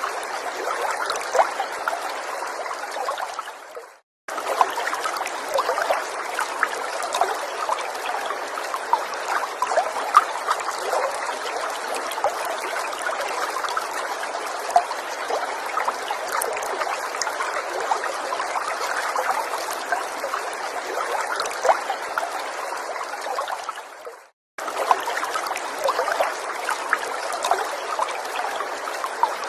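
Small forest stream trickling over stones, a steady babble with many tiny splashes and drips. Twice the sound fades away and stops for a moment before starting again, once about four seconds in and again some twenty seconds later.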